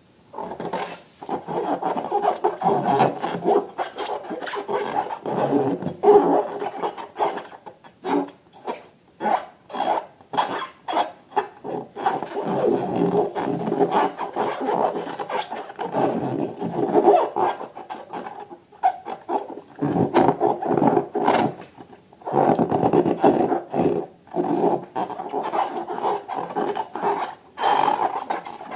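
Hands squeezing, rubbing and mixing slime and rubber balloons: an irregular, continuous rubbing and squelching with many small clicks and a few short pauses.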